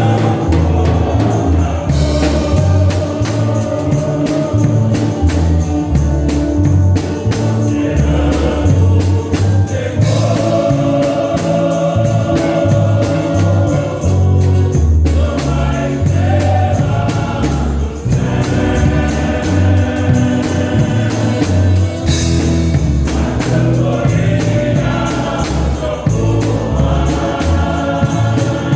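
Gospel music: a group of voices singing together over bass and a steady percussion beat.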